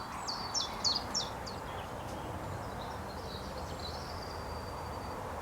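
Songbirds singing over a steady background hiss: a quick run of short, falling high chirps in the first second and a half, then a thin high note held for about a second near the end.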